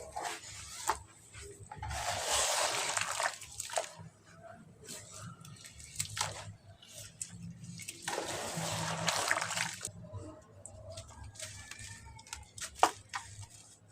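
Soft cement crumbling and dropping into water: two longer stretches of splashing, about two seconds in and again about eight seconds in, with scattered small plops and clicks between them.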